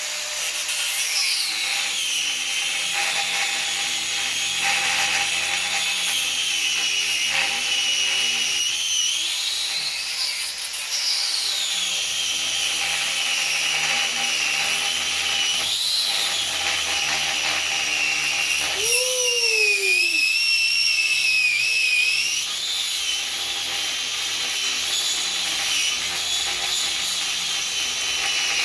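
Angle grinder working steel, its high whine sagging and rising in pitch again and again as the disc is pressed into the metal and eased off.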